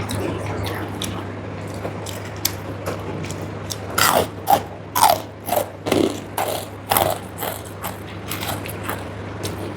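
Close-up chewing of crisp food, with a quick run of loud, sharp crunches in the middle, over a steady low hum.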